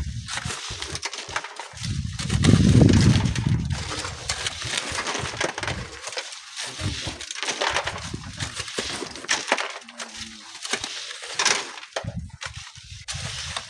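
Gritty crunching and rattling of sand and small stones being worked. A gust of wind buffets the microphone with a low rumble about two seconds in.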